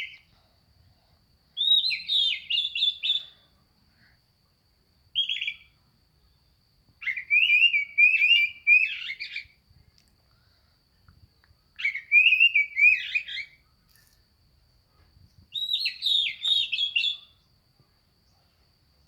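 Male Oriental magpie-robin singing in varied whistled phrases, five phrases of half a second to a couple of seconds each with short pauses between them. A faint steady high whine runs underneath.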